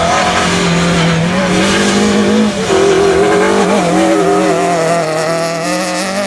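Rally car engine held at high revs with a steady pitch, dipping briefly about two and a half seconds in and then pulling hard again.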